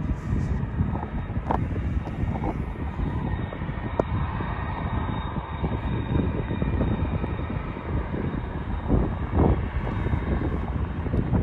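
Jet airliner engines running with a faint steady whine, under gusty wind buffeting the microphone.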